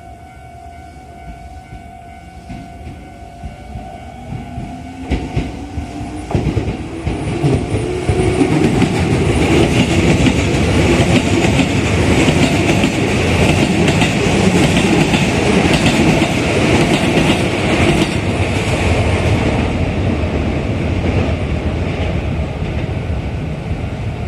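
Keikyu 600-series electric train passing a level crossing. The crossing's warning bell rings steadily at first. Then the wheels clatter over the rail joints and the train's running noise builds to a loud pass of about ten seconds, easing off near the end with the bell tone heard again.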